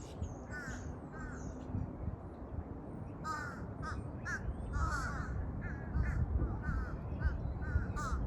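Crows cawing, many short calls in quick runs, over a low steady rumble.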